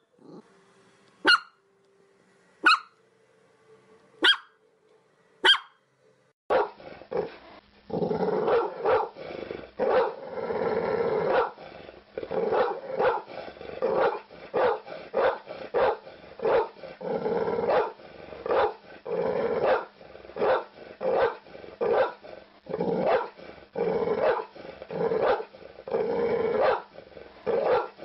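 Dogs barking. First come single sharp barks about every second and a half. After about six seconds a small shaggy white dog starts barking rapidly and without pause to the end.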